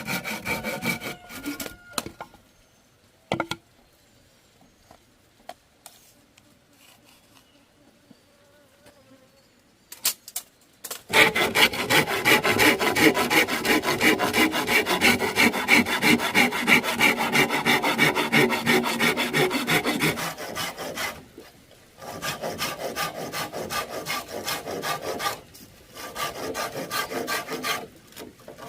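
Hand saw cutting bamboo in quick, even back-and-forth strokes. A brief run of sawing is followed by a pause of several seconds with a few knocks, then a long steady run of strokes about eleven seconds in and two shorter runs with brief stops near the end.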